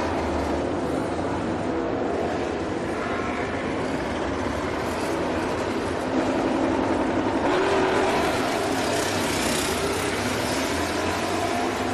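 Steady motor-vehicle noise, a dense rumble and hiss with faint rising and falling engine pitch. It swells louder from about six to nine seconds in, as something passes closer.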